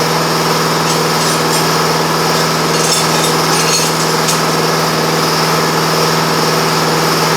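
A motor running at a steady speed, an even mechanical drone that does not change, with a few faint light clinks about a second to four seconds in.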